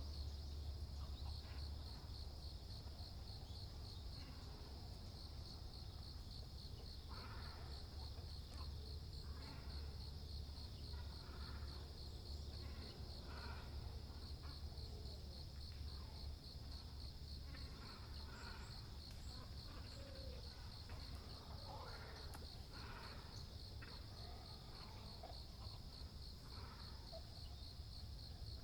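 An insect trills steadily in fast, even pulses, while great cormorants and herons give short, scattered calls, more often after the first few seconds. A low steady rumble runs underneath.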